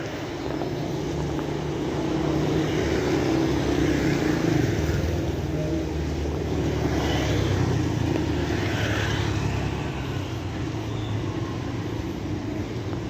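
Steady rain falling, with a low engine rumble underneath that swells twice, a few seconds in and again past the middle.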